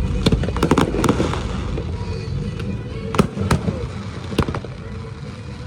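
Fireworks bursting in sharp bangs, a quick cluster in the first second, then single bangs every second or so, over music playing in the background.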